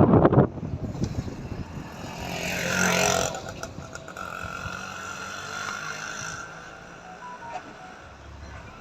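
A motor vehicle going past, its engine sound swelling to a peak about three seconds in and then slowly fading.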